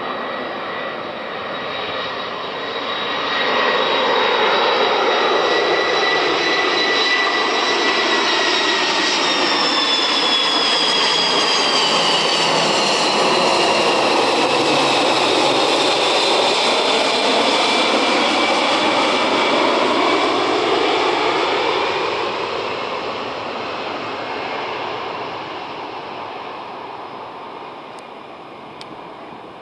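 Boeing 747's four jet engines as the airliner passes by: the roar builds over the first few seconds, holds, then fades away. The high engine whine slides down in pitch as it goes past, about a third of the way in.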